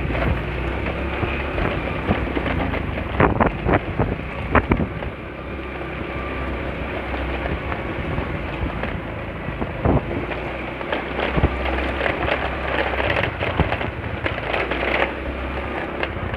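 Riding noise from a moving scooter: wind rushing over the microphone over a low engine and road rumble, with scattered sharp knocks and pops.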